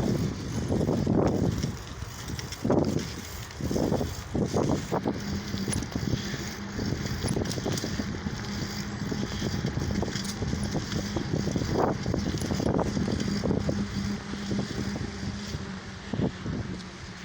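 Riding noise of a lowrider bicycle with wind gusting on the microphone in the first few seconds, then a steady low hum joins from about five seconds in.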